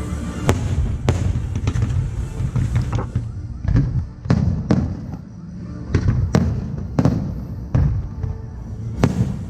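Aerial fireworks shells bursting in a rapid string, more than a dozen sharp bangs about one or two a second, over a steady low rumble.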